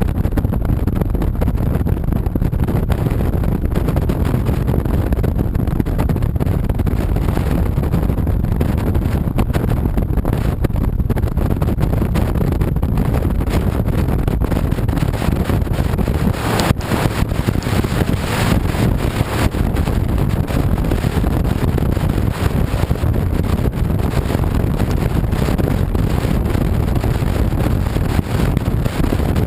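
Honda VTX 1300C V-twin engine running at cruising speed, with wind rushing over the microphone. A brief louder hiss swells up about seventeen seconds in.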